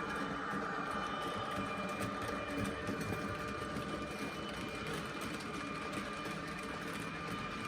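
H0-scale model train running on the layout's track: a steady small-motor whine over a fine, even rattle of wheels on the rails.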